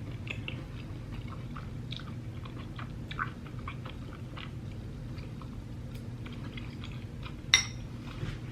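A person chewing food close to the microphone, with many small wet mouth clicks, and one sharp click about seven and a half seconds in, over a steady low hum.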